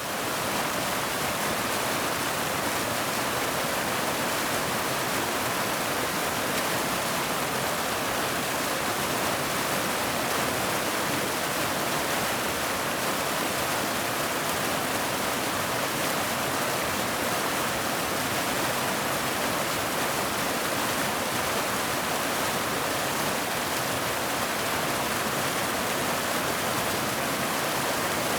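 Waterfall: water falling in a steady, even rush that never changes.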